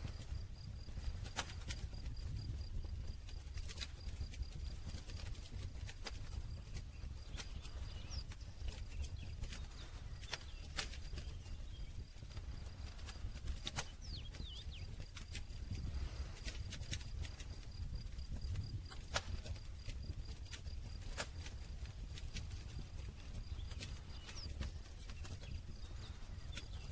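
Wood campfire crackling, with sharp pops and snaps at irregular intervals over a low steady rumble of the burning fire. A faint, high, rapidly pulsing tone runs steadily underneath.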